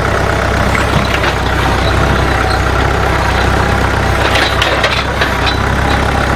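Farm tractor engine running steadily at low speed, with a cluster of short sharp knocks a little past the middle.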